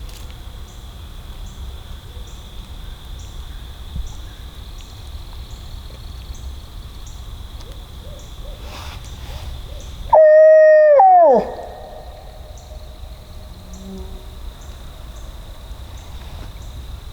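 One loud owl hoot made as a turkey-hunting locator call to shock a roosted gobbler into gobbling, held on one pitch for about a second and then dropping away, about ten seconds in. A steady high insect drone and regular faint chirps run underneath.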